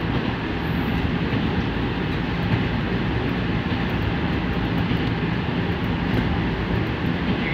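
Nankai 1000 series electric train running along the line, heard from inside the driver's cab: a steady running noise, mostly low in pitch, with no breaks or sudden events.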